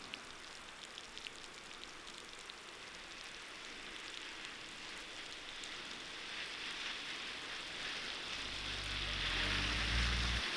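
Melting snow dripping and pattering, then a rising hiss of tyres on a wet, slushy road with a low engine rumble as a vehicle approaches near the end. The sound cuts off suddenly.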